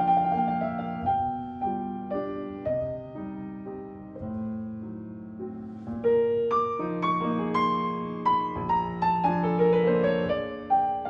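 Background music: solo piano playing a slow classical piece, struck notes and chords with a descending run of quicker notes in the second half.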